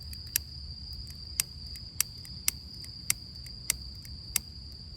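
A lighter being struck again and again to light damp paper kindling: about seven sharp clicks at irregular intervals, roughly one every half-second to second. Crickets keep up a steady high trill throughout.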